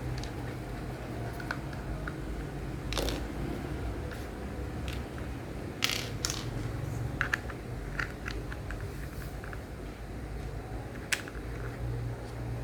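Small plastic toy parts being handled and snapped together: scattered sharp clicks, with a cluster of quick ones partway through, over a steady low hum.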